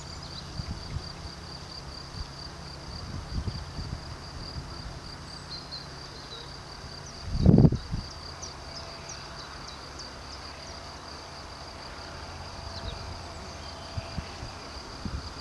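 An insect trills steadily at a high pitch, with short bird chirps here and there over a low outdoor rumble. A brief loud thump or rush comes about seven and a half seconds in.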